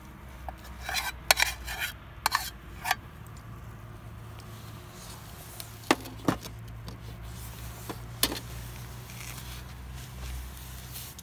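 Metal cookware and utensils clinking during campfire cooking: a quick run of clinks in the first few seconds, then two or three single clinks later.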